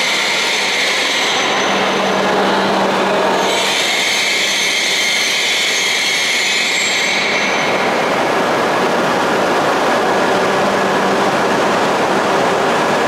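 Hokuriku Shinkansen E7/W7 series train running alongside the platform: a steady rushing noise with a high hiss that drops away about a second in, comes back from about four to seven seconds, then fades, over a steady low hum.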